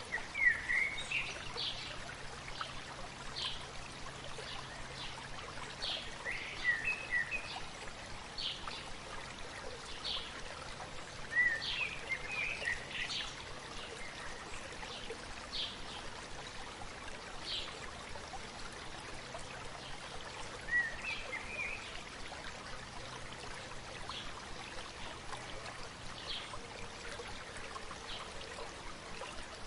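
A stream's steady murmur, with small birds chirping over it in scattered bursts of short calls, the loudest bursts near the start.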